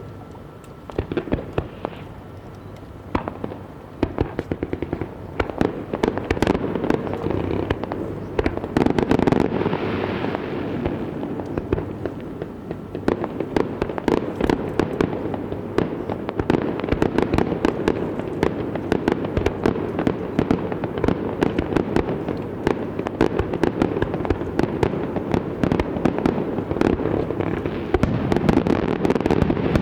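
Aerial fireworks going off in a dense barrage, many bangs and crackles overlapping. It starts sparser and grows louder and busier over the first few seconds, then keeps up steadily.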